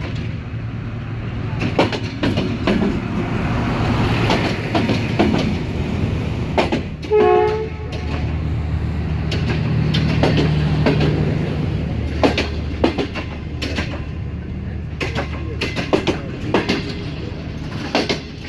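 Passenger train pulled by a diesel-electric locomotive rolling slowly into a station: a steady low engine drone, with the coaches' wheels clicking over the rail joints as they pass. A brief horn toot comes about seven seconds in.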